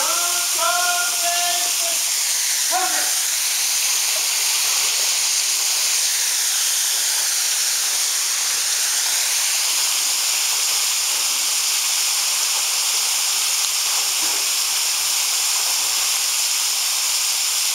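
Caldeira Verde waterfall pouring into its pool: a steady, loud hiss of falling water.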